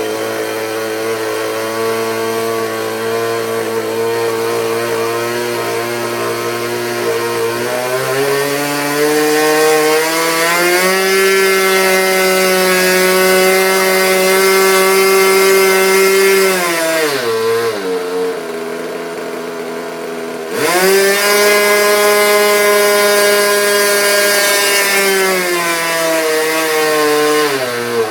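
Super Tiger 45 two-stroke glow engine on a model airplane running on its first start. It runs at a steady lower speed, then is throttled up to high revs from about eight seconds in. It drops back to idle around seventeen seconds, snaps up to high revs again just after twenty seconds, and is eased back down near the end.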